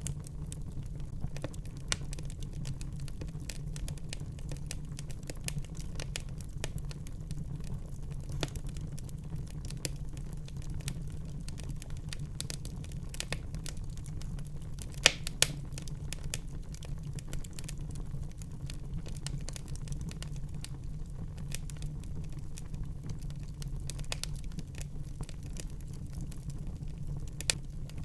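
Wood fire burning in a fireplace: a steady low rumble of the flames with constant small crackles, and a few louder sharp pops, the biggest a pair about halfway through and one more near the end.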